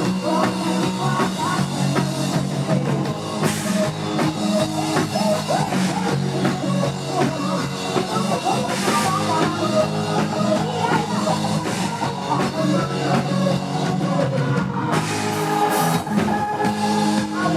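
Thai Isan band playing live, with a drum kit keeping a steady beat under guitar and a wavering lead melody.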